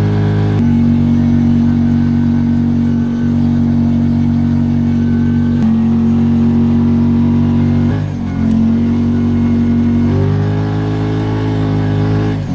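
Kawasaki Teryx 4 side-by-side's engine running under way, a steady drone whose pitch steps up and down several times, with a short dip about eight seconds in.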